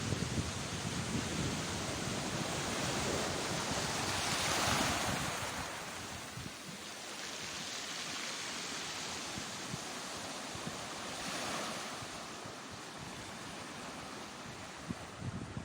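Sea waves breaking and washing ashore, one wave swelling loudest about four to five seconds in and a smaller one near twelve seconds. Wind buffets the microphone in the first few seconds.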